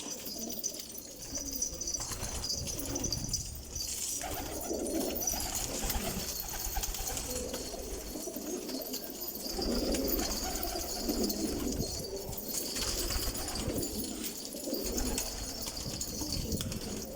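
Domestic pigeons cooing repeatedly, low murmuring calls over steady background hiss.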